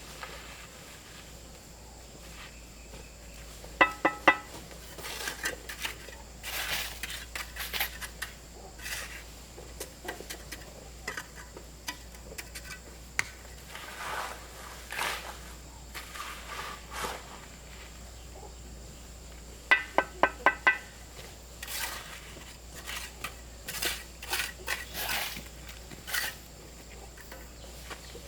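Sharp metallic strikes with a ringing pitch, three in quick succession about four seconds in and a run of about five around twenty seconds, among scattered lighter knocks and clatter.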